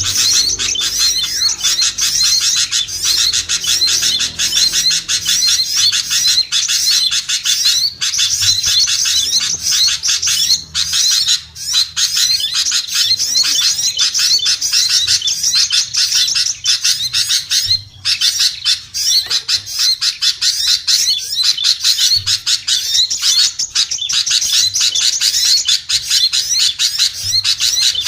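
Dense, unbroken chorus of many small songbirds chattering and chirping rapidly over one another: a bird-lure track of mixed small-bird calls, made to pull small birds down.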